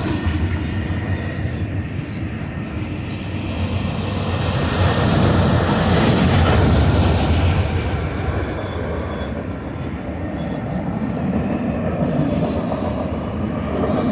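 Freight train passing, a continuous rumble and rush of wheels on rail that swells to its loudest about five to seven seconds in, then eases.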